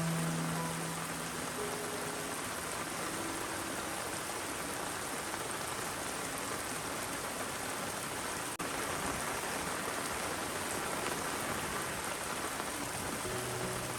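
Steady rain falling, an even hiss of drops on surfaces. A few short low tones hang over it near the start, and a brief break comes about eight and a half seconds in.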